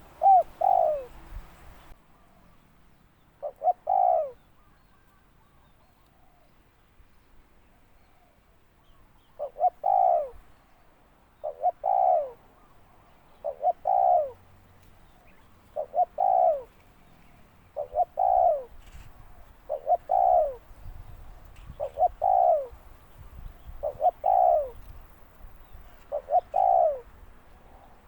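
Spotted dove cooing repeatedly: each call is a couple of short coos followed by a longer falling note. There are two calls near the start, a pause of several seconds, then a steady series about every two seconds.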